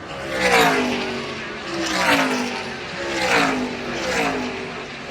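NASCAR V8 race vehicles passing one after another at speed, about four passes. Each engine note drops in pitch as it goes by.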